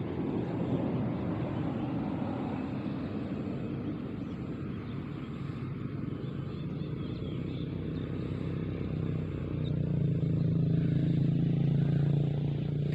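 An engine running steadily, its low hum growing louder in the last few seconds.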